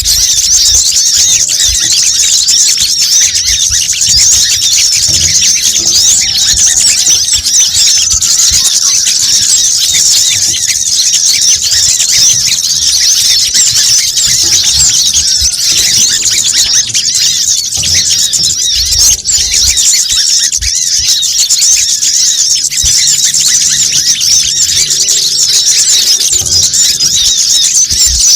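Loud, unbroken, busy chirping and twittering of many small birds layered together, all quick high notes: a bird-lure recording of kemade, sogon and kolibri kelapa calls, played to attract these birds.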